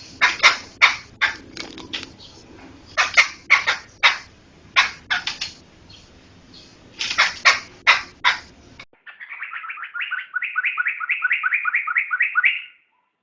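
Poksay (laughingthrush) calling: loud, harsh single notes in quick clusters. After a sudden change of recording about nine seconds in, it gives a rapid rattling trill of about six notes a second that swells and then stops near the end.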